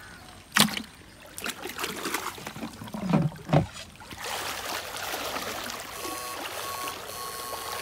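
Water splashing in a shallow stream: a sharp splash about half a second in and two more around three seconds in, followed by a steady trickling of water. A faint steady tone comes in near the end.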